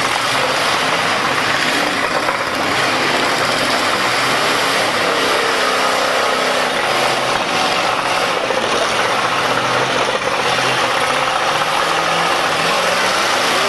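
Demolition derby car engines running, under a steady, loud wash of noise.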